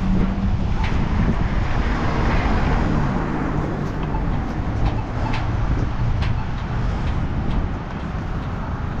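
Strong wind buffeting the microphone in a steady, heavy low rumble.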